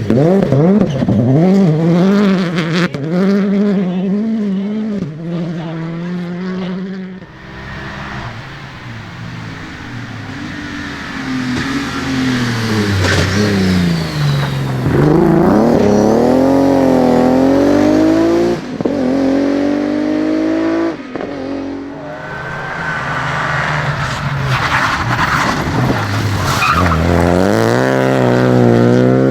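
Rally cars driven flat out on a stage: engines revving up and dropping back through gear changes as they pass, with tyres skidding. Several separate passes follow one another with abrupt changes between them.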